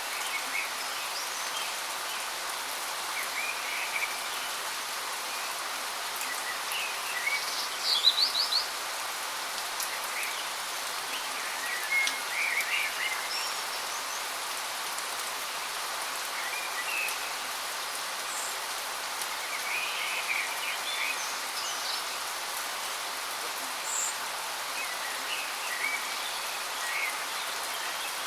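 Steady rushing hiss of a waterfall, with birds chirping over it now and then; the loudest is a quick run of chirps about eight seconds in, with another cluster a few seconds later.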